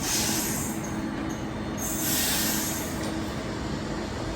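TransPennine Express train moving at the platform: a steady hum with bursts of high-pitched wheel squeal or hiss, one near the start, one about two seconds in, and another just after the end.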